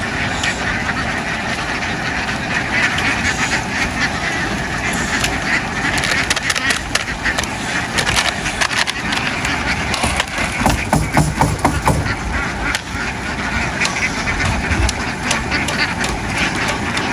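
A large flock of domestic ducks quacking as a continuous crowd noise, with a run of sharp clicks and knocks in the middle.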